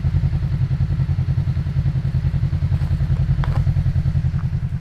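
Toyota 4Runner engine running at low speed with a steady, low pulsing rumble while crawling on the trail, with a few light clicks over it. The rumble drops off right at the end.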